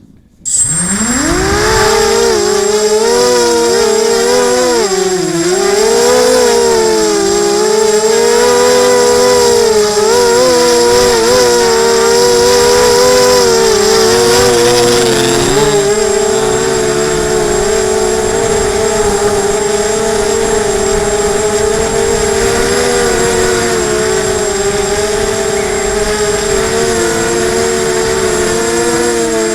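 Emax 250 quadcopter's brushless motors and propellers spinning up about half a second in to a loud whine. The pitch rises and falls with the throttle for the first half, then holds steadier.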